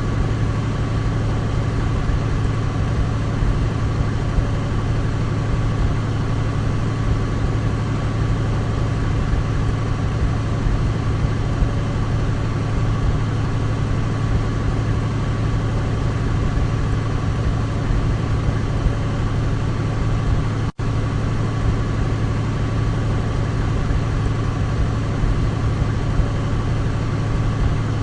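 Douglas DC-3's radial piston engines running at a steady, unchanging drone, with a deep hum and a steady higher tone over it. The sound drops out for a split second about two-thirds of the way through, then carries on unchanged.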